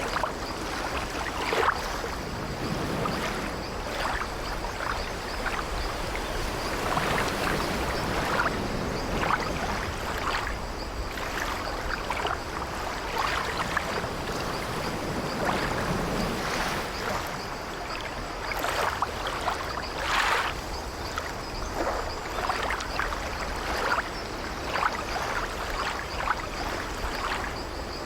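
Sea waves washing steadily against an old wooden ship, with frequent short creaks and knocks from its timbers scattered throughout.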